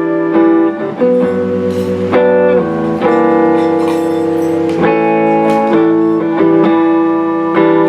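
Guitar chords played without singing, each chord ringing for about half a second to a second before the next, as an instrumental passage between sung lines of a song.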